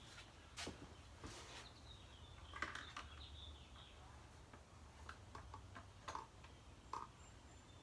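Near silence: faint scattered light clicks and taps over a low steady hum.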